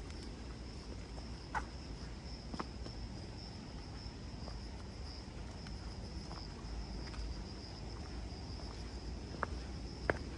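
Insects singing in a steady, unbroken high-pitched drone, over a low rumble, with a few faint clicks.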